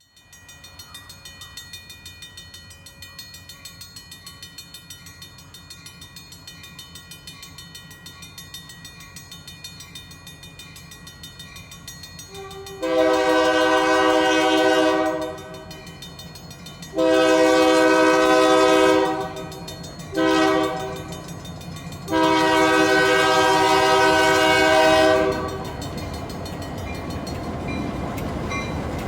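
Diesel locomotive's engine running and growing steadily louder as it approaches, then its multi-chime air horn sounds two long blasts, one short and one long: the standard grade-crossing warning.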